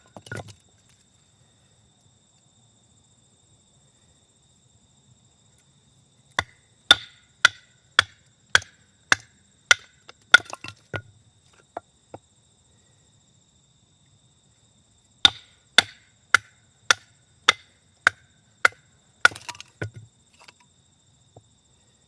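Wood being chopped for the campfire: sharp strikes about two a second in two runs of about eight, each followed by a few lighter knocks, with a steady faint high trill of insects throughout.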